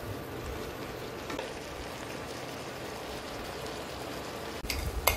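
Shredded cabbage sizzling steadily as it fries in mustard oil in a pan, with a couple of sharp knocks close together near the end.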